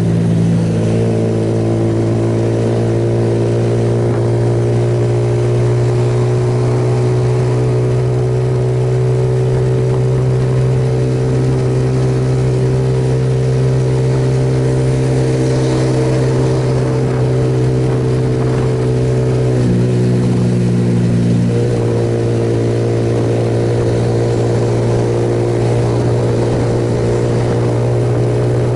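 Suzuki Yes motorcycle's single-cylinder engine running steadily at cruising speed, with wind and road noise. The engine note shifts briefly about twenty seconds in, then settles again.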